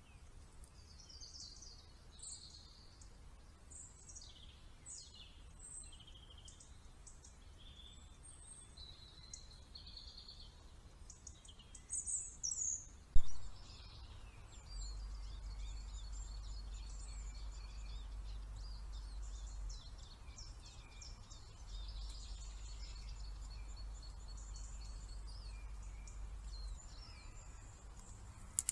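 Woodland birds calling, with many short chirps and whistled notes, recorded through a trail camera's microphone. A few loud clicks come about twelve to thirteen seconds in. After them a steady low hum runs under the bird calls.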